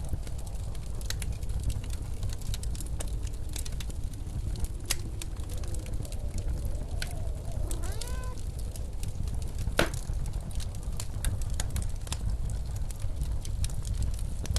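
Fireplace crackling with scattered sharp pops, a louder pop about ten seconds in, over the steady low rumble of blizzard wind. Around eight seconds a short rising pitched tone cuts through.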